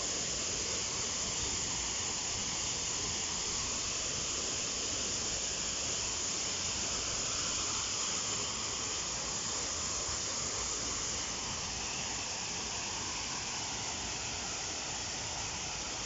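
Bang Pae waterfall: falling water making a steady, even rushing hiss.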